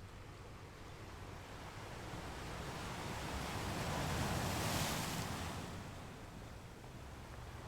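Pacific Ocean surf: a wash of breaking waves that swells to its loudest about two-thirds of the way through, then fades.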